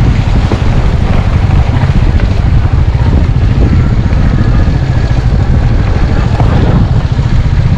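Motorcycle on the move: engine running under a loud, steady low rumble of wind on the microphone.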